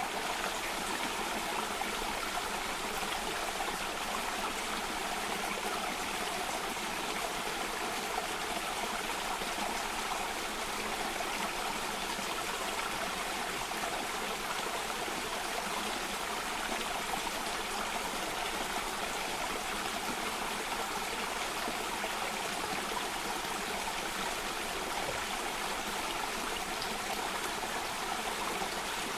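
Running water of a stream or cascade, a steady, even rush with no change in level.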